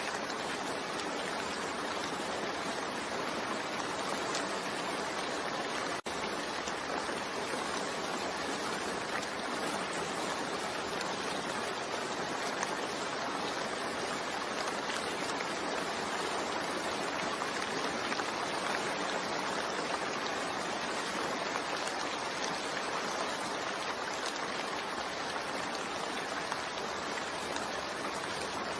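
Steady, heavy rain falling, an even hiss with no let-up. There is a split-second gap about six seconds in.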